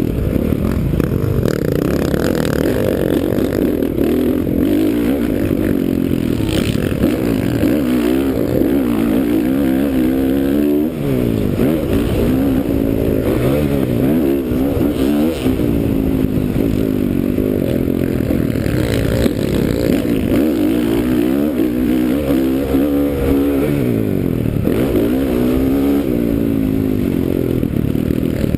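2009 Honda CRF450R's single-cylinder four-stroke engine being ridden hard on a motocross track. The engine pitch climbs and drops over and over as the throttle is opened and rolled off.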